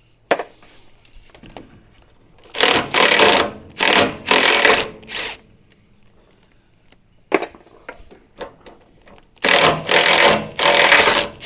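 Cordless impact driver undoing the rear step's mounting bolts, in short rattling bursts of about a second each: three bursts a few seconds in, then two more near the end. A sharp click comes before each group.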